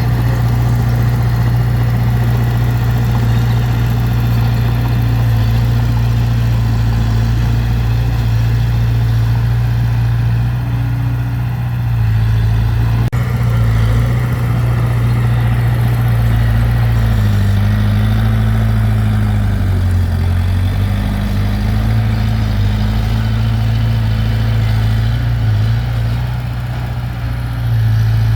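Diesel engine of heavy earthmoving machinery running steadily, its pitch dipping briefly under load about two-thirds of the way through and then coming back up.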